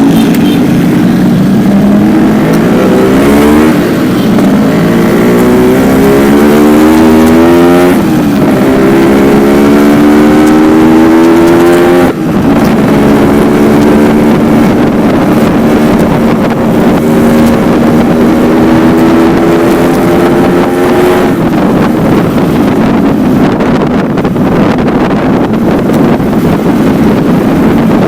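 Yamaha RX-King two-stroke single-cylinder motorcycle running through a stock silencer with only the main baffle fitted. It accelerates through the gears, the pitch climbing and dropping at each shift roughly every four seconds, then pulls long in one gear before easing off about three-quarters of the way in.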